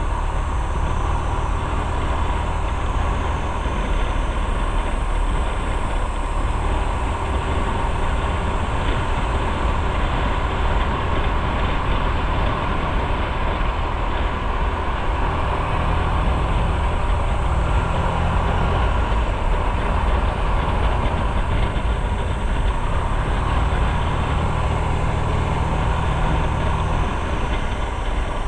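Motorcycle running on the road: a steady engine hum under wind and road noise, the engine note shifting a little now and then.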